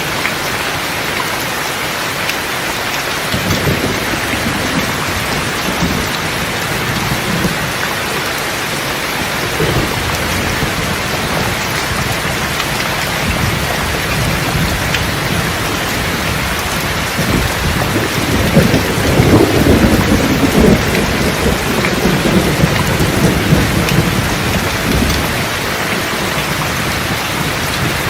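Steady heavy rain, with rolling thunder rumbling low beneath it: a brief roll a few seconds in and a longer, louder one from about the middle to near the end.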